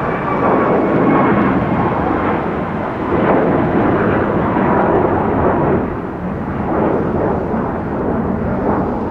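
Jet airliner's engines roaring close by, a loud rushing rumble that swells and eases, with a faint high engine whine sliding slightly down in pitch in the first seconds.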